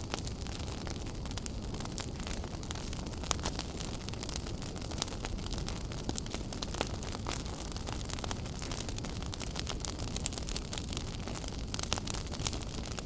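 Wood fire burning in a fireplace: a steady low rumble and hiss with frequent small crackles and pops, a few sharper snaps standing out.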